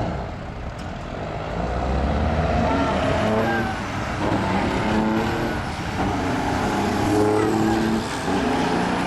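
Big diesel semi-truck engine running hard, its pitch stepping up and down every second or so as it works through the gears.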